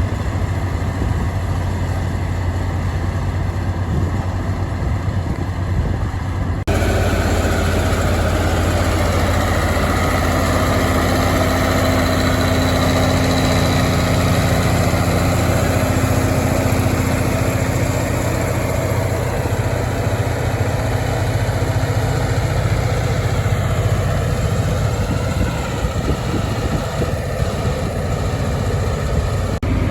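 Tractor diesel engine running steadily. A little way in, the sound switches abruptly to a louder, fuller engine sound with more mid-range noise.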